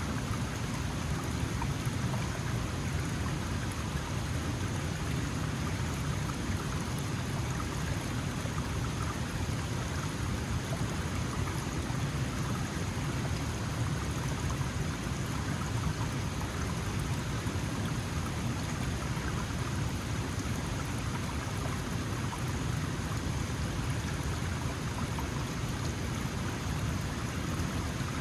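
Small mountain stream flowing steadily over stones, a continuous even rush of water with a low rumble and no distinct splashes.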